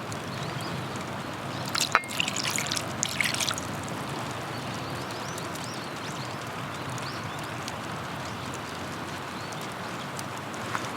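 Steady rain hiss, with a short splashy trickle of liquid being poured and a sharp click about two seconds in.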